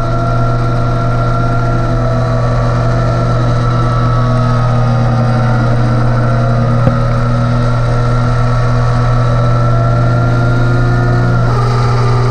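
Yamaha YZF-R3's parallel-twin engine on a racing motorcycle, heard onboard, held at high revs on a steady throttle through a long corner. The note changes near the end as the bike comes out onto the straight.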